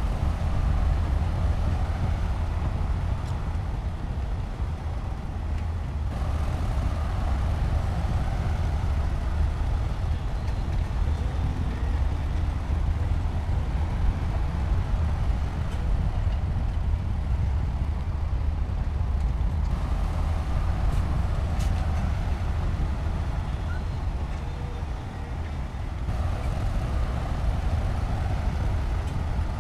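Heavy construction machinery's diesel engine running continuously with a deep, steady rumble; the upper part of the sound grows and fades in stretches of several seconds.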